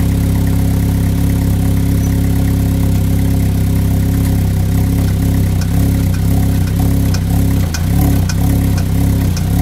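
Vauxhall Z22SE 2.2-litre four-cylinder engine idling steadily. From about five seconds in, a sharp knock repeats roughly twice a second: the strange knocking noise being chased down on this engine.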